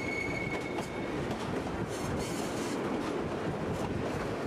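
White Pass & Yukon Route passenger cars rolling along narrow-gauge track: a steady rumble of wheels on rail with scattered clicks. A brief high wheel squeal lasts about a second at the start, as the train takes a curve.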